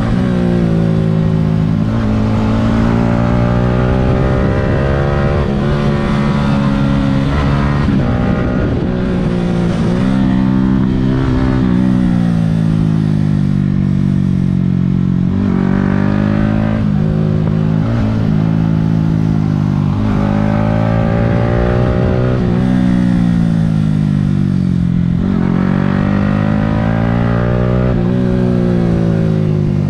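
Yamaha R15 V3's single-cylinder engine heard from the rider's seat, ridden hard: the revs climb and drop back over and over as it shifts through the gears and through the bends.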